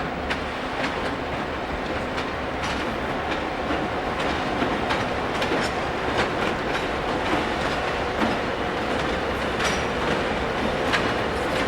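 Freight train rolling past, its wagon wheels clacking irregularly over rail joints over a steady rumble.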